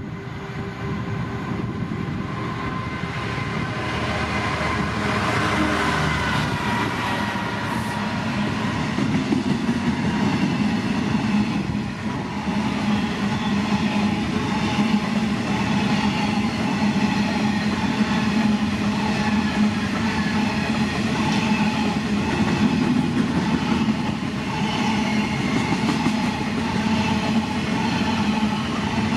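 Freight train passing, its wagons rumbling steadily along the track, growing louder over the first few seconds, with faint steady tones above the rumble.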